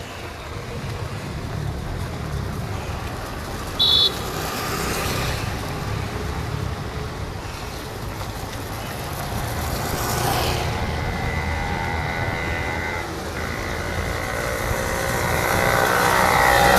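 Street traffic: vehicles passing along the road with a steady rumble, and a short high-pitched beep about four seconds in.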